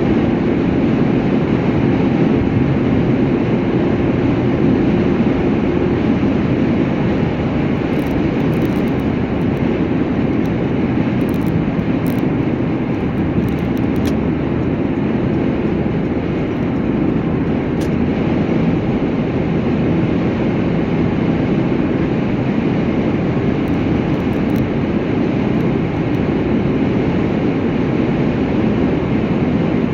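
Steady rumble and hiss of a vehicle travelling at speed, with a faint steady tone in the first few seconds.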